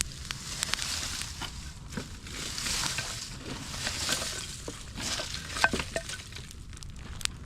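Campfire burning: wood crackling and popping over a hissing sizzle that swells and fades a few times, with one louder pop a little before six seconds in, over a steady low rumble.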